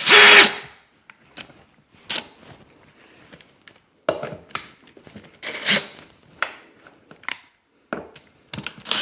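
A power drill runs in one short burst of about half a second right at the start, driving a screw into door-knob hardware. It is followed by scattered light clicks and knocks of the hardware and screws being handled and fitted.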